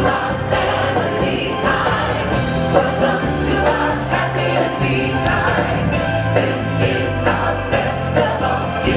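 Music with a choir singing over a bass line that moves from note to note.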